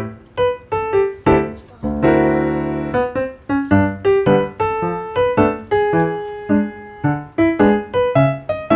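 Background piano music: single notes struck at a steady, unhurried pace, with a fuller chord held for about a second around two seconds in.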